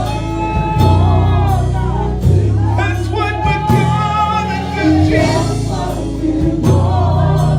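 Live gospel worship music: voices holding sung lines over a band with a strong, steady bass and regular percussion hits.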